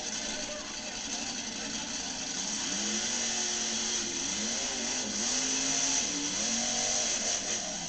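Monster truck engine revving loudly over a steady roar: its pitch climbs and drops several times in the second half.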